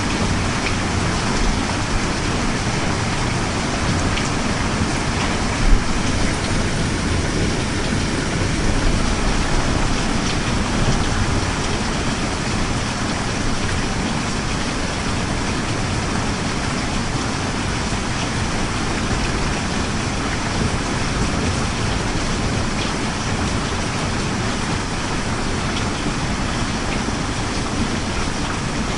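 Steady rain falling, an even hiss of drops. About six seconds in there is one brief low thump.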